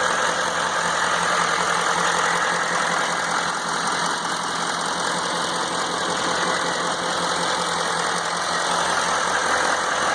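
2012 Chevy Silverado 3500HD's 6.6-litre Duramax V8 turbo-diesel idling steadily.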